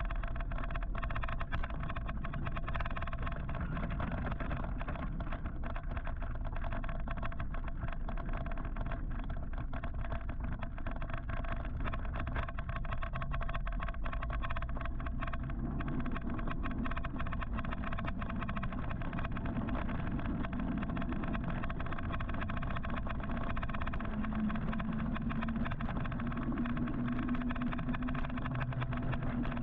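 Steady wind and road noise heard from a moving electric motorcycle in traffic, with a thin steady whine through it. A low engine hum from another vehicle comes in about 24 seconds in and lasts to the end.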